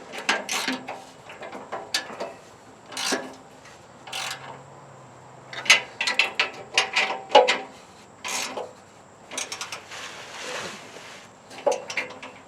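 Metal hand tools working on the truck: irregular sharp clicks, clinks and short scrapes of metal on metal.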